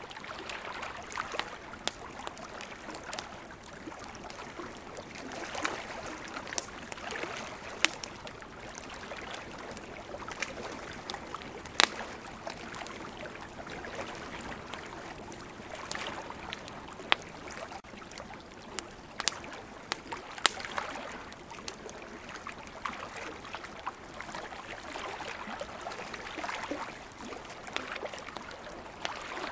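Wood campfire crackling, with scattered sharp pops, the loudest about twelve and twenty seconds in, over a steady wash of ocean waves that swells and fades every several seconds.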